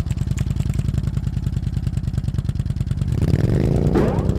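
Motorcycle engine running with a fast, even pulse, revving up in pitch near the end.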